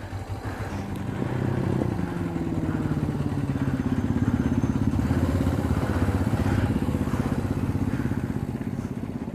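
Motorcycle engine running steadily with a low pulsing drone, growing louder over the first second or so and then holding.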